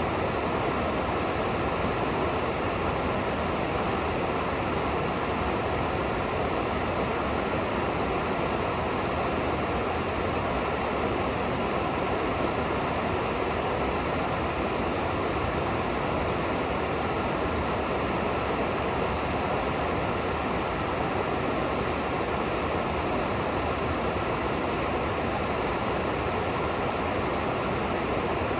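River water rushing and churning steadily.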